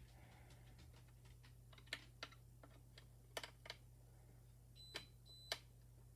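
Faint scattered clicks and taps from handling a Honeywell alarm keypad and its wiring, six in all, with two short high beeps near the end.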